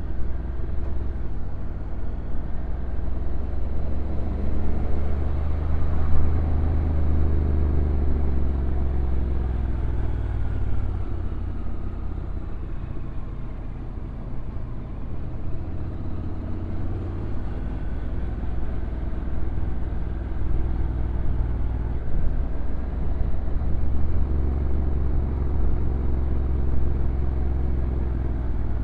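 Honda NC750X DCT's parallel-twin engine running on a downhill ride, its note rising and falling with throttle and automatic gear changes. It is loudest about a fifth of the way in and eases off around the middle.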